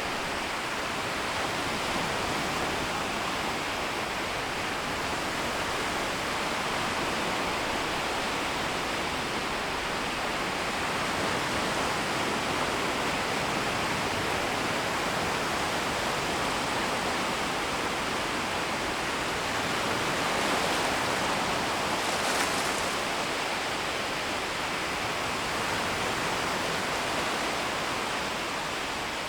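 Small, shallow waves washing in and drawing back along a shoreline in a steady, continuous rush of water, swelling slightly about twenty seconds in.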